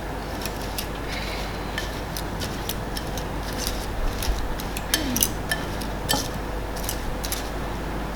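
Kitchen utensil clicking and clinking against a bowl in irregular strokes as ingredients are mixed, busier about halfway through.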